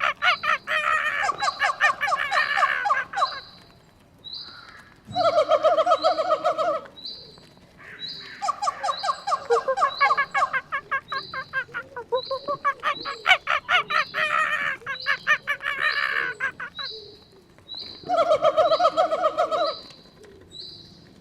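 Monkey calls: bouts of rapid chattering cries a few seconds long with short gaps between them, over a short high chirp that repeats a little more than once a second.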